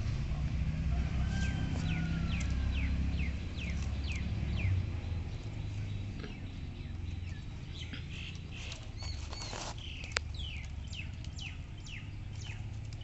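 Small bird chirping in series of quick downward-sliding notes, over a low rumble that fades after about five seconds. A single sharp click a little past ten seconds in.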